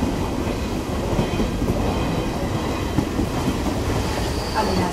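Steady rumble and rattle of train wheels on the rails at speed, heard from aboard a suburban electric multiple-unit (EMU) train, with a passenger train running alongside on the next track.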